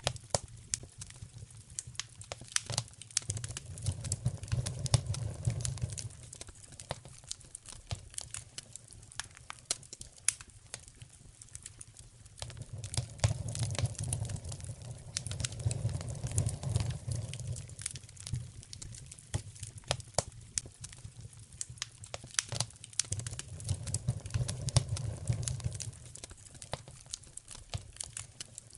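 Wood fire crackling, with frequent sharp pops and snaps. Three slow, low rumbling swells rise and fade under the crackle.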